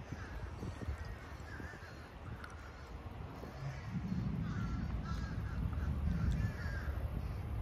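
Birds calling in many short, repeated calls over a low outdoor rumble, which grows louder about halfway through.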